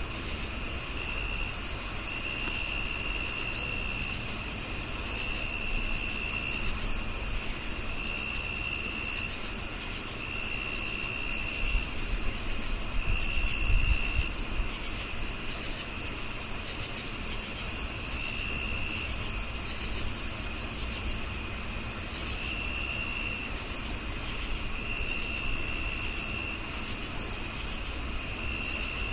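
Crickets chirping in chorus: one steady high-pitched trill, a regular chirp about twice a second, and a lower trill coming in spells of about a second every couple of seconds. A faint low rumble sits underneath and swells briefly about halfway through.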